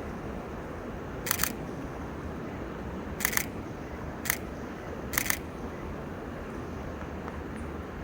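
Camera shutter firing four times, one to two seconds apart. Most shots are a quick double click.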